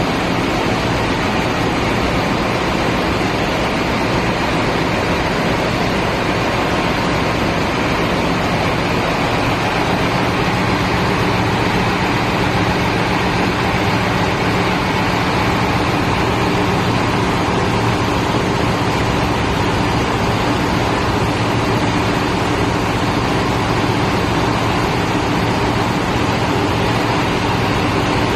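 Fishing boat's engine running at a steady speed while under way: an unchanging drone under a thick rushing noise.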